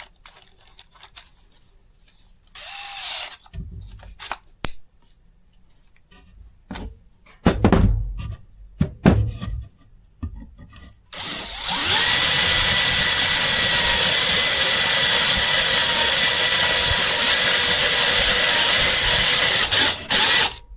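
Craftsman 20V brushless cordless drill driver starting about halfway through and running at a steady speed for about nine seconds, turning a very dull 1/2-inch drill bit that cuts poorly. Before it, a few knocks of handling and a short whir.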